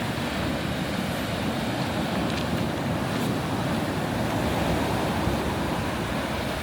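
Sea surf washing in on a beach at high tide, a steady rushing wash with wind buffeting the microphone.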